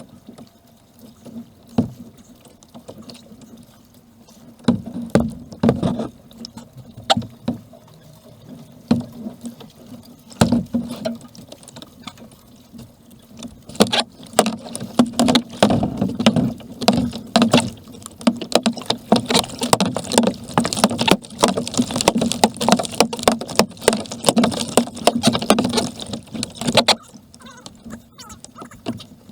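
Kayak paddling: paddle splashes and sharp knocks, scattered at first, then rapid and busy from about halfway through until shortly before the end.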